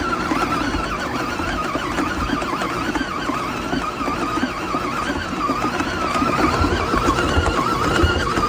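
COOKLEE 660 W stand mixer running steadily: a wavering motor whine over a rattling, rumbling drive.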